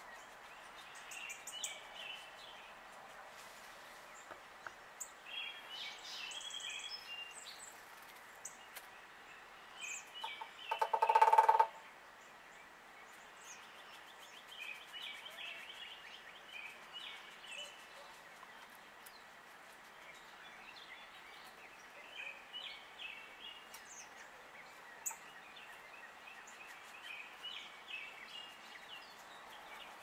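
Birds chirping on and off in short faint notes, with one louder, harsh pitched call lasting about a second, about eleven seconds in.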